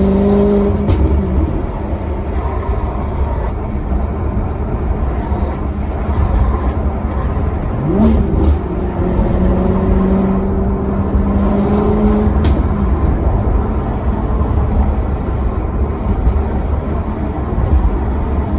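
Maserati Quattroporte Sport GT's V8 running on the move over a heavy low rumble. Its tone fades out about a second in, a quick blip of revs rises about eight seconds in, then the engine holds a steady note for a few seconds before fading again.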